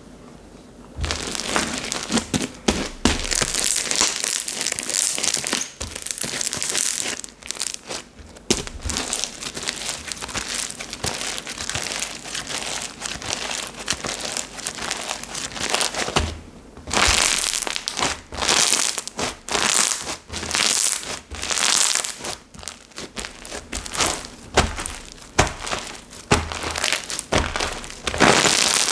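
Hands squishing and kneading a soft 'seureureuk' slime, giving a dense crackly squelching that starts about a second in. In the second half it becomes separate squeezes, roughly one a second.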